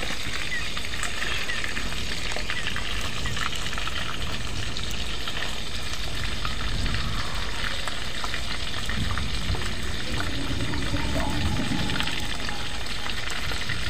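Snakehead fish frying in hot oil, a steady, continuous sizzle.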